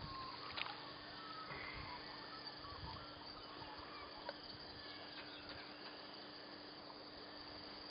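Faint bird calls: short chirps and whistles, mostly in the first couple of seconds, over a low steady hum.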